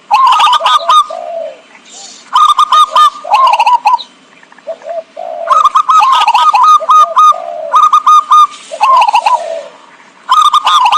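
Zebra doves (perkutut) cooing in loud, rapid stuttering phrases of clipped notes, five phrases, with softer, lower coos between them.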